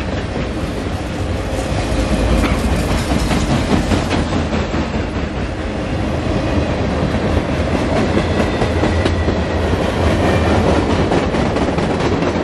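Freight train's cars rolling past close by, a steady rumble with the clickety-clack of steel wheels over the rail joints.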